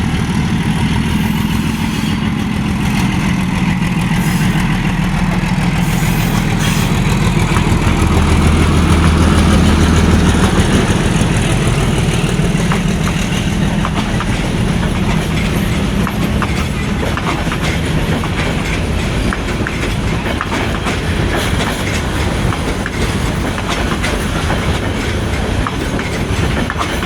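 Locomotive-hauled commuter train running on the rails: a steady low engine hum, strongest about ten seconds in, with the clickety-clack of wheels over rail joints growing denser in the second half.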